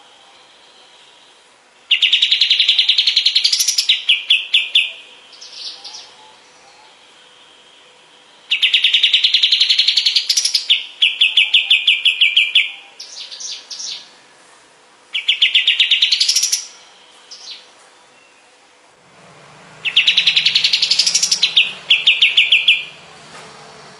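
Kapas tembak songbird singing four loud phrases, each a fast rattling trill rising in pitch that breaks into a string of slower notes.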